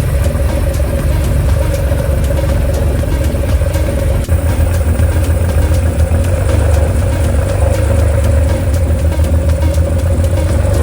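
Porsche 914's 2.7-litre flat-six engine idling steadily, with an even, rapid firing pulse and a brief dip about four seconds in.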